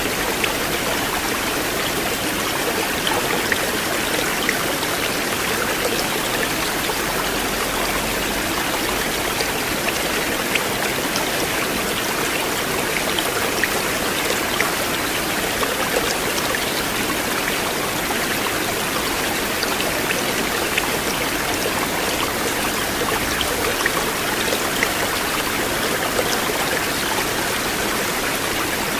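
River water flowing steadily in an even rush, with small splashes and droplet ticks scattered through it.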